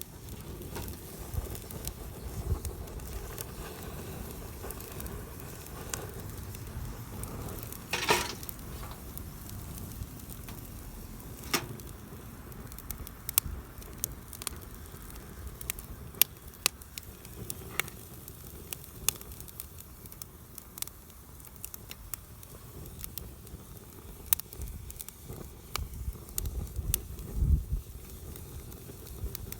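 Wood campfire burning: a steady low hiss with irregular crackles and sharp pops, the strongest pop about eight seconds in.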